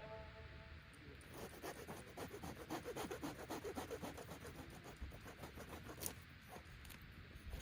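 A quick run of faint scraping strokes, about a second in until near six seconds, then a single sharp click.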